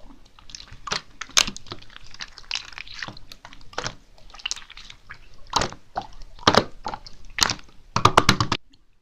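Glitter slime being squeezed and pressed by hand, making irregular wet clicking pops and squelches, with a quick run of pops about eight seconds in before it stops.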